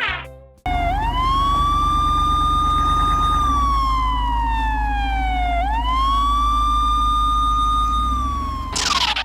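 Police siren wailing: the tone rises, holds, slides slowly down and rises again, two slow sweeps in all, over a steady low rumble.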